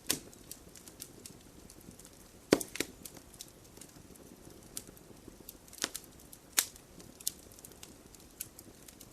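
Wood fire burning in a fireplace, its logs crackling: scattered sharp pops over a low, steady hiss, the loudest about two and a half seconds in.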